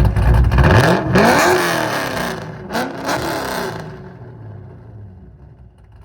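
A car engine revving hard as it accelerates past, its pitch climbing, dropping and climbing again, then fading away over the last couple of seconds.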